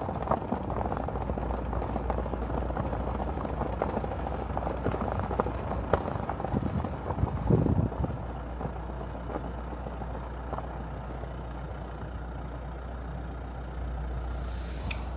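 Car engine running with a steady low rumble and scattered small knocks, one louder thud about halfway through, then a slightly quieter stretch.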